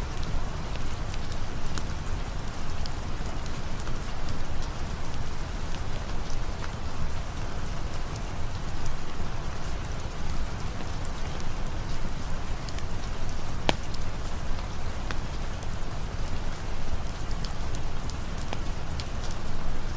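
Steady rain falling, an even hiss over a deep low rumble, with scattered sharp ticks of single drops.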